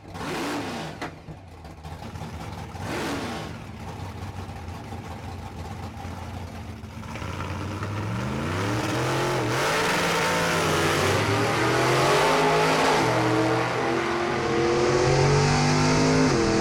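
Drag-racing car engine running with a couple of short revs. About halfway through it grows louder and accelerates hard, its pitch climbing in steps and dropping back several times.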